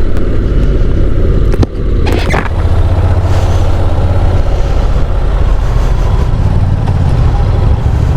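Motorcycle engine running under way, with wind rushing over the helmet microphone. The engine note dips briefly just under two seconds in, then a short surge of wind hiss follows.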